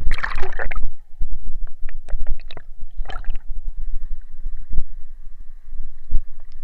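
Muffled splashing and sloshing of water close to the action camera, with low rumble and short knocks; a louder splash near the start and another about three seconds in.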